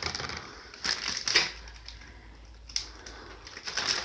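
Plastic bag crinkling and rustling in a few short bursts as raw meat is handled and packed.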